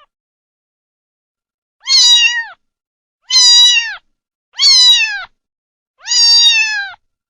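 Domestic cat meowing four times, each meow under a second long and falling in pitch, spaced roughly a second and a half apart.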